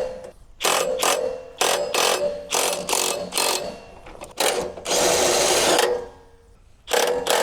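Power drill run in a string of short bursts, one held for about a second, driving the sawmill's adjustable feet to raise one side of the mill.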